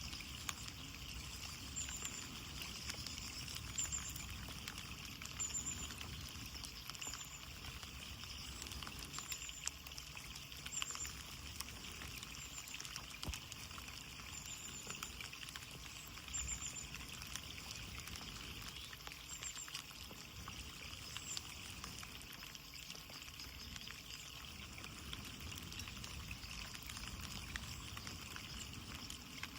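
Steady rain on a window: an even hiss of rainfall with many scattered drop ticks. Faint short high chirps recur every second or two through much of it.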